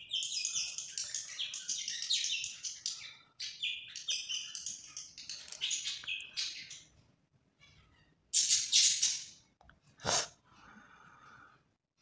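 Small birds chirping in quick repeated high notes. About eight seconds in there is a short, loud, noisy burst, and around ten seconds a single sharp knock.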